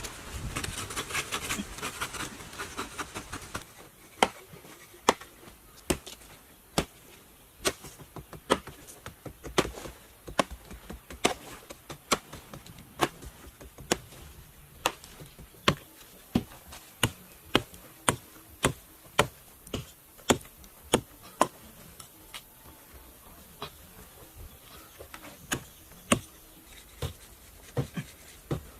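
A few seconds of rustling or scraping, then a long run of sharp, evenly spaced knocks at about one per second, pausing for a few seconds before several more near the end.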